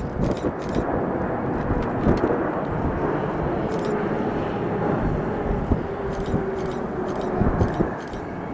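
Jet aircraft engine noise: a steady rumble with a faint whine that drops a little in pitch.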